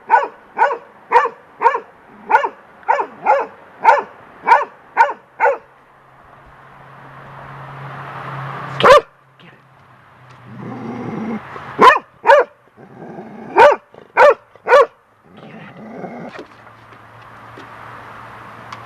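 Young golden retriever barking in alarm at a feather blowing in the wind. There is a quick run of sharp barks, about two a second, for the first five seconds. A single loud bark follows near the middle, then a few more barks in quick succession.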